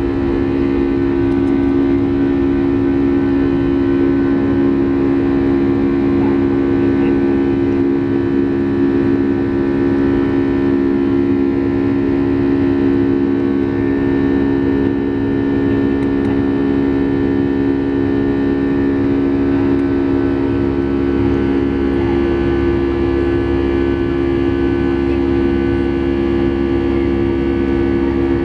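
Boeing 757-300 jet engines running, a steady loud drone heard inside the passenger cabin, with a strong low hum and several steady tones over it.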